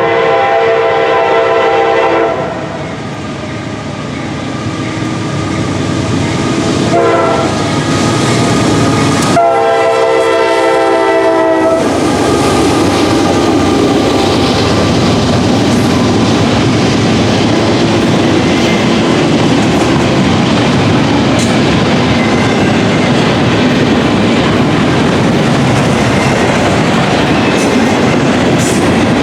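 Norfolk Southern GE AC44C6M locomotive's horn blowing three times: a long blast, a short one about seven seconds in, and another long blast near ten seconds. After that the train of intermodal container cars passes close by with a loud, steady noise of wheels on rail.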